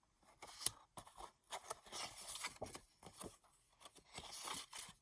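Paper cardstock journaling cards being handled and slid over one another: a run of rustles, scrapes and light taps, busiest about two seconds in and again near the end.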